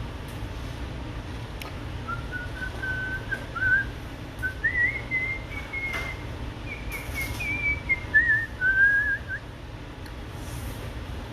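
A person whistling a wandering tune for about seven seconds, the pitch stepping up and then back down, over a steady low hum.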